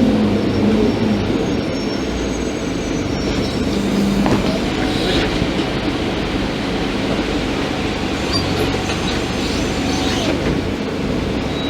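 Scania K310IB bus under way: steady engine and drivetrain running with road and body noise, with a few sharp clicks and knocks.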